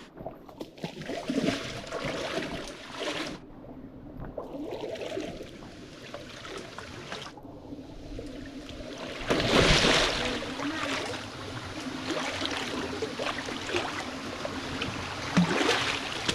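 Stream water splashing and sloshing around people wading through it, with many small irregular splashes and one louder splash about halfway through.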